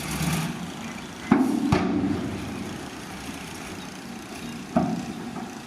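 Heavy earthmoving machinery running steadily, broken by three sharp, loud knocks: two close together about a second in, and one more near the end.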